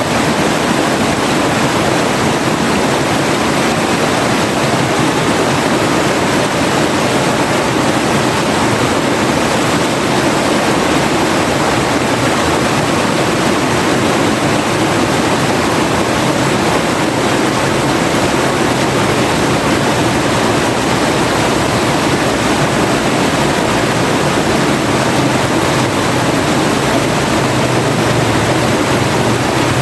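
River water flowing: a steady, even rush of water with no breaks.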